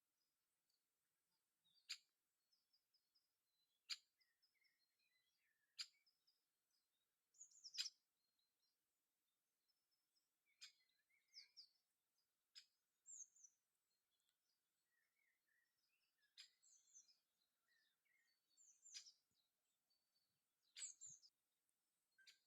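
Faint morning birdsong: one bird gives a short, sharp call about every two seconds, while other small birds chirp and twitter in between.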